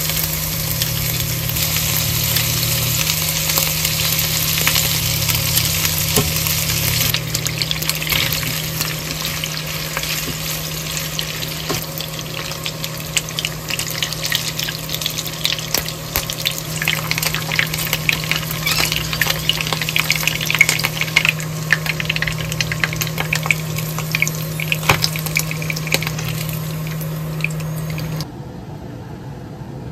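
Pieces of beef large intestine frying in a nonstick pan, sizzling with dense crackling and spitting pops over a steady low hum. The sizzle cuts off suddenly near the end.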